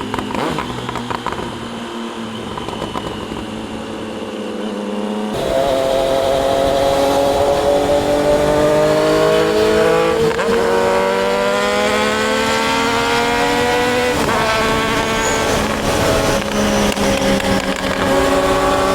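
Triumph Daytona 660's three-cylinder engine under way: steady and moderate at first, then about five seconds in it gets louder and climbs in revs, with a brief dip in pitch about ten seconds in before climbing again. About fourteen seconds in the revs drop back and it runs steadier, wavering briefly a couple of seconds later.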